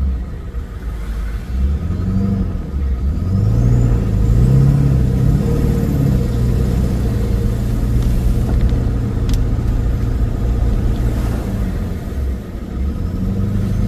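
Car engine running, picking up revs about three seconds in and then holding a steady pitch.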